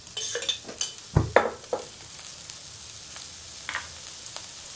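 Rice-flour and egg batter frying in a little oil on a flat tawa, a steady sizzle. A quick cluster of sharp knocks and clatters sounds in the first two seconds, with one more about three-quarters of the way through.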